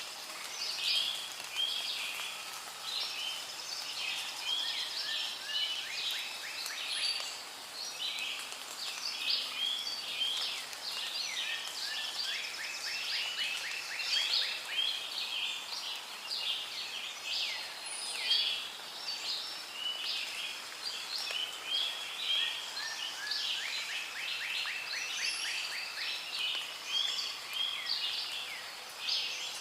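A dense chorus of many birds calling and chirping over one another without pause. A rapid trill stands out twice, about halfway through and again near the end.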